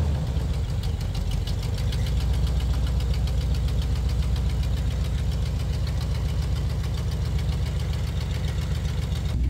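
1974 AMC Javelin's engine idling steadily with a fast, even ticking over its running, just after a new fuel pump was fitted in place of the dead one.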